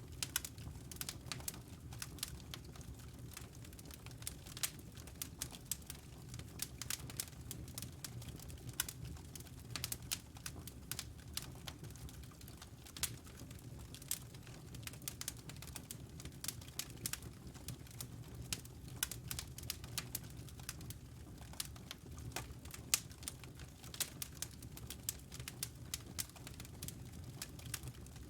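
Wood fire burning in a fireplace: irregular sharp crackles and pops, several a second, over a low steady rumble.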